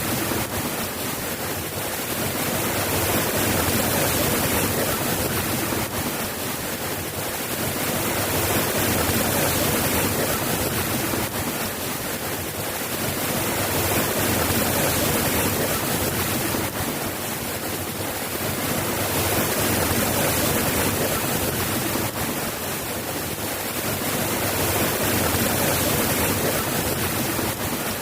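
Steady heavy rain, a dense even hiss that swells and eases gently every few seconds.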